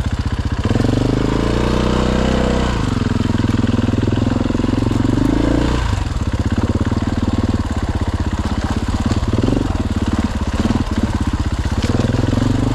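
Husqvarna FE 501 dirt bike's single-cylinder four-stroke engine running as it rides a rough trail. The revs rise and fall twice in the first six seconds, then the engine runs choppier at lower, steadier revs.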